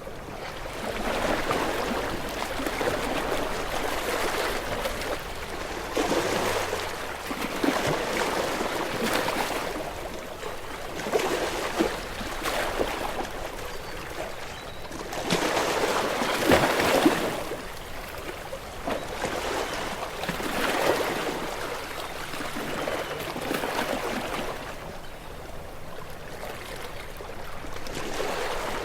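Small waves washing onto a shore, each swelling and falling away every few seconds, with the biggest wash about halfway through.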